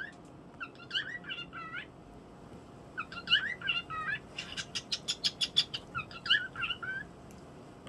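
Pet talking bird whistling: short bursts of quick, sliding whistle notes in three groups, with a fast run of about eight sharp chirps a second in the middle.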